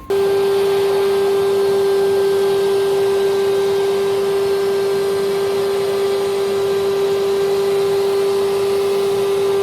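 Electric motor-driven blower appliance running at a constant speed, switched on at the start. A strong steady hum sits under an even rush of air.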